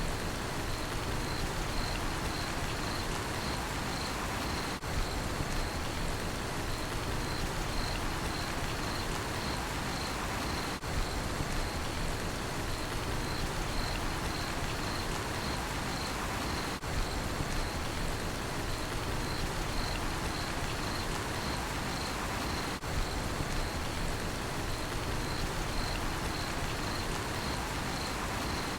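Steady rain falling, with a cricket chirping in a regular series of high, even-pitched pulses over it.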